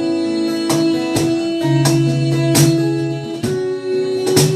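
Guitar playing a slow worship song between sung lines, strummed chords ringing with sustained notes.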